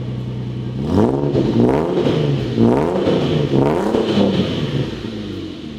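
Mercedes ML engine through a custom straight-piped exhaust with a screamer exit, idling, then revved several times in quick succession before dropping back to a steady idle.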